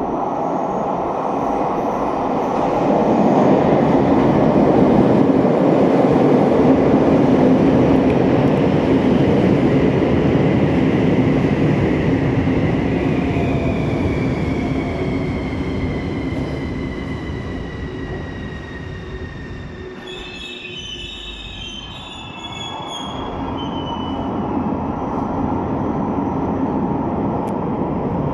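Bucharest Metro CAF train running into the station. The rumble of its wheels is loudest early on. Then an electric whine falls steadily in pitch as it brakes, and a brief high squeal comes about twenty seconds in as it slows to a stop. Rail noise builds again near the end.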